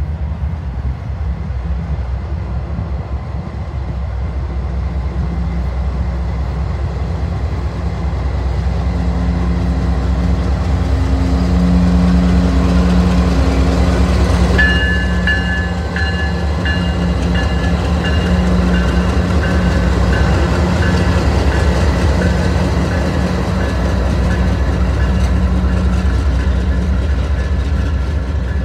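A freight train passing close behind several diesel-electric locomotives: a loud, steady low engine drone with the rumble of wheels on the rails. About halfway through, a high ringing tone with short breaks joins in.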